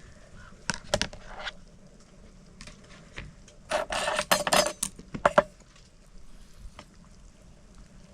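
Handling of a self-heating hot pot's plastic container and lid: a few light clicks and rustles, then a loud burst of scraping and clattering about four seconds in, lasting under two seconds.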